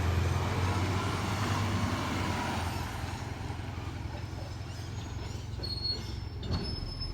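Garbage truck engine running with a steady low hum that eases off about two and a half seconds in, and a single knock near the end.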